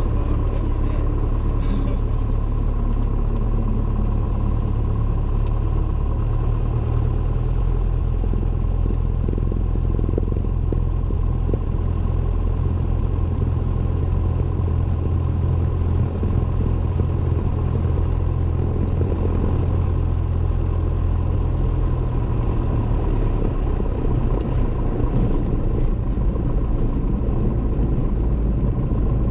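Cessna 172N's four-cylinder Lycoming engine and propeller droning steadily, heard inside the cockpit. The low drone shifts slightly about three-quarters of the way through.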